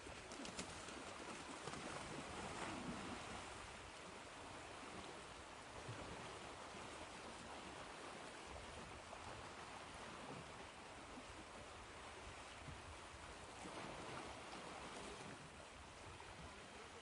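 Ocean waves washing on a shore: a steady rush of surf that swells a little a couple of seconds in and again near the end.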